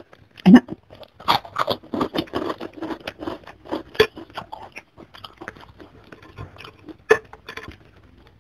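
Close-up chewing of crunchy food: a run of sharp crunches, dense for the first few seconds and sparser later, with a loud crunch about half a second in and another about seven seconds in.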